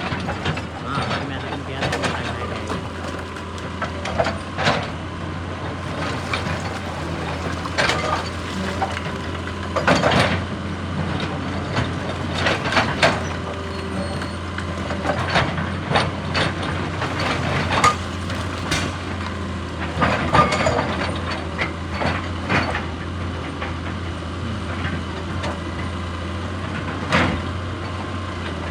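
Excavator's diesel engine running at a steady drone, with irregular sharp knocks and clanks from its working gear.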